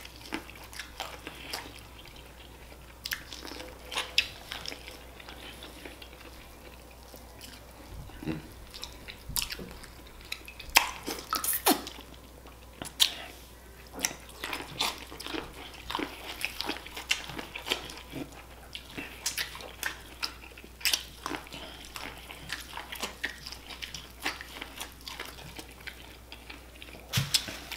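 Close-up eating of sauce-coated corn on the cob: biting, chewing and wet lip smacking, heard as many short, irregular clicks and crackles.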